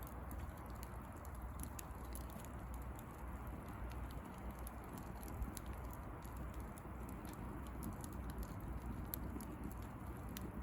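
Bonfire of dry branches crackling: scattered sharp pops and ticks over a steady low rush, with one louder snap about five seconds in.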